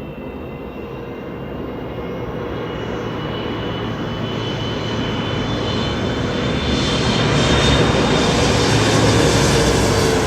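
A large engine approaching and passing, growing steadily louder, with a whine that falls slightly in pitch near the end.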